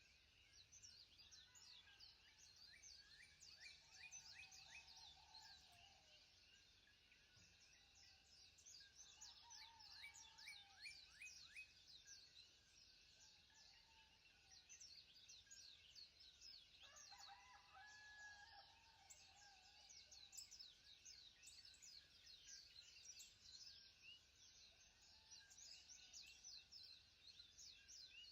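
Faint birds chirping: many quick, high calls running on and off, with a few lower, longer calls in between.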